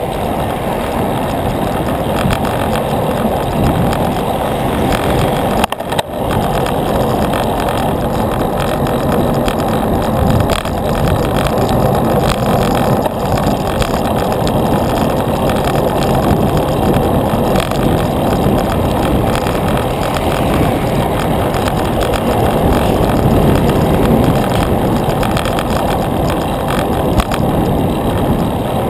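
Steady rush of wind and road noise from riding a bicycle, loud and even throughout, with a brief dip about six seconds in.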